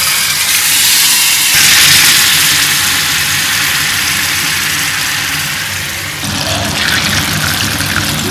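Battered chicken pakoras sizzling loudly in hot oil in a frying pan, a steady hiss that swells about a second and a half in as more pieces go into the oil.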